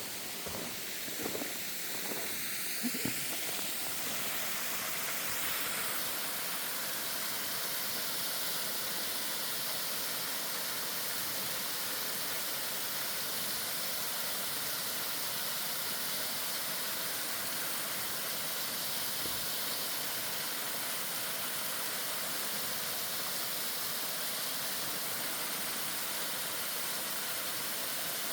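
Waterfall: falling water rushing as a steady, even hiss. A few faint knocks come in the first few seconds.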